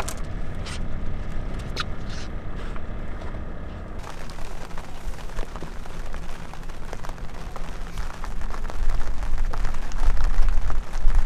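A boat's engine running steadily, with a few short sharp clicks. From about four seconds in, rain patters on the water, and a low wind rumble on the microphone grows louder near the end.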